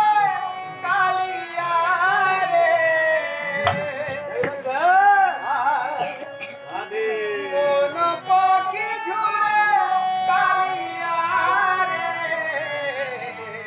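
Devotional kirtan singing: a voice holding and bending ornamented melodic lines over sustained instrumental accompaniment, with a few sharp percussive strikes.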